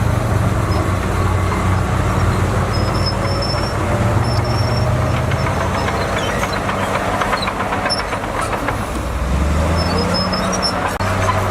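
Bulldozer's diesel engine running under varying load, its note stepping up and down several times, with a run of metallic clanks around the middle.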